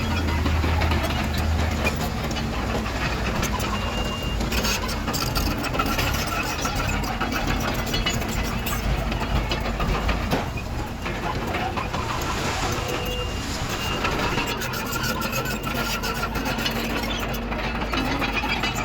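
Komatsu D31PX bulldozer's diesel engine running steadily while working, with a continual clatter of short knocks over it.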